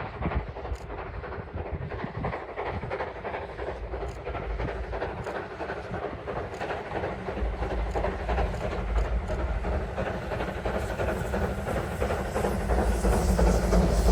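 Steam train approaching along the track, its sound growing steadily louder.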